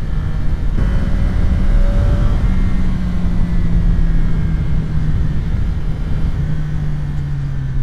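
CFMOTO 675 SR-R's inline three-cylinder engine running under way at fairly steady revs, its note easing down in a couple of small steps, over a low rush of wind.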